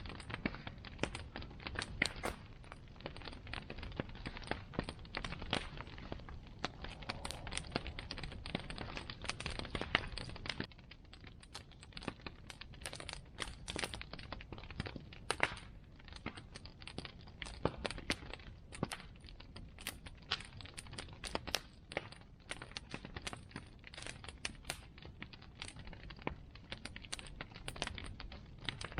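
Bonfire of burning wood crackling, with many irregular sharp pops over a low steady rumble, slightly quieter after about ten seconds.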